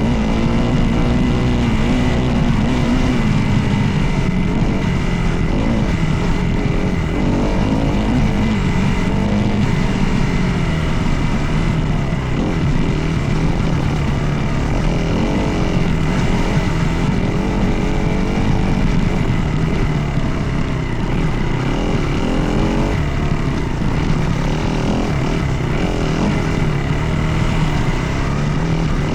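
Dirt bike engine running hard while being ridden, its revs rising and falling continuously with throttle and gear changes.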